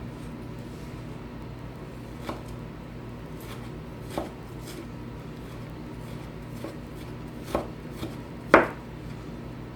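Knife chopping fresh ginger on a cutting board: a few slow, irregular knocks of the blade, the loudest near the end.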